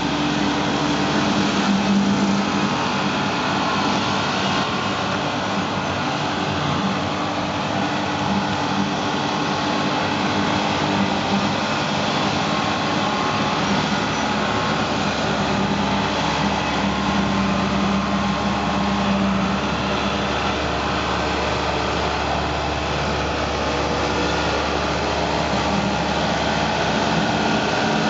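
Tractor engine running steadily under load while slashing, with the whirr of the tractor-mounted slasher (rotary mower) mixed in.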